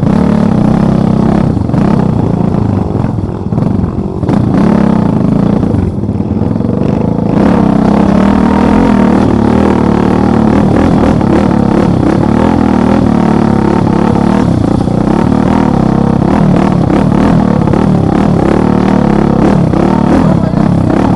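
Motorcycle engine running under load with two riders aboard, its revs rising and falling over the first several seconds, then held steadier and louder from about seven seconds in.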